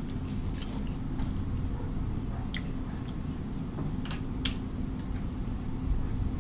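Eating sounds: scattered soft mouth clicks and smacks from chewing, over a steady low background rumble.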